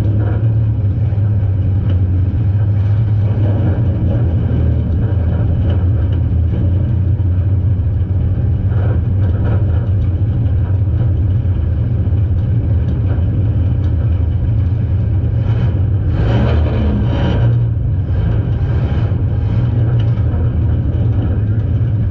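Demolition derby car's engine running steadily, heard from inside the cabin, with a deep, even hum throughout. A short burst of louder, brighter noise comes about three quarters of the way through.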